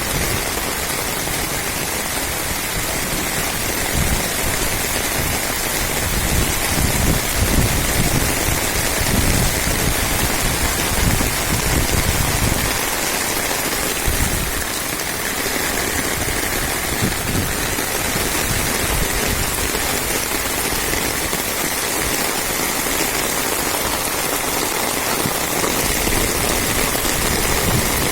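Steady rain falling and pattering on surfaces, with low rumbles through the first half.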